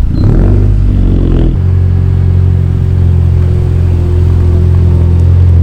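Car engine revving up over the first second and a half, then running steadily at a held pitch with a strong low hum.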